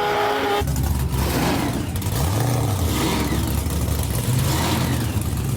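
A car engine running and being revved, its pitch rising and falling. The sound changes abruptly about half a second in, from a higher steady whine to the deeper engine note.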